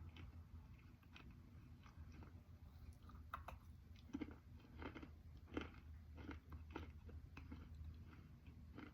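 Close-miked chewing of softened slate: quiet, irregular crunches, coming roughly every half second over the second half, over a low steady hum.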